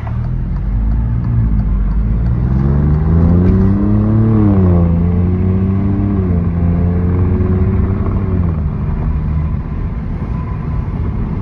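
2019 Alfa Romeo Giulia Quadrifoglio's Ferrari-derived twin-turbo V6 and exhaust under acceleration, heard from inside the cabin with the car in Dynamic mode rather than Race mode. The engine note climbs, drops at an upshift, climbs again for about two more seconds, then drops at a second shift, holds, and eases off in steps in the second half.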